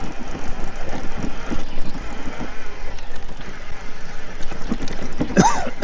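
Bicycle tyres rolling over sandy gravel: a steady, noisy rumble. Near the end comes a brief voice sound that rises and falls in pitch.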